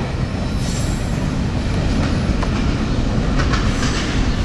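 Freight train of boxcars rolling past at speed: a steady low rumble of steel wheels on rail, with light metallic clatter near the end.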